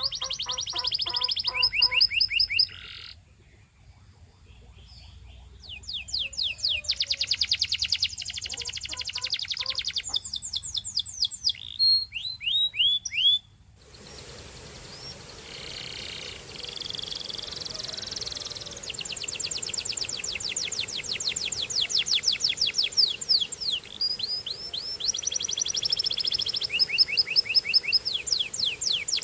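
Canary singing: fast trills of rapidly repeated high notes alternating with runs of falling whistled slurs, one tour after another, with a brief pause about three seconds in. About halfway the background changes abruptly to a steady hiss.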